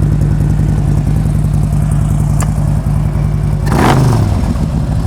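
2013 Harley-Davidson Road King's V-twin engine idling steadily, with a sharp tick a little before halfway and a short whooshing burst about four seconds in.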